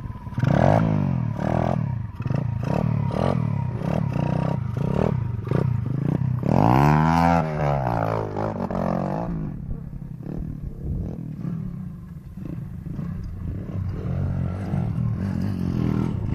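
Small pit bike engine revving in a series of short blips. About seven seconds in comes one longer rev that rises and falls, then the engine runs at lower, steadier revs.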